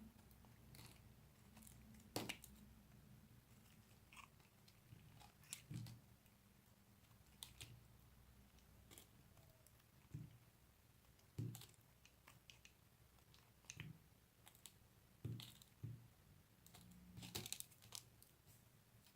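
Bar soap being cut and crunched with a knife: about a dozen short, faint crunches at irregular intervals, over a faint low hum.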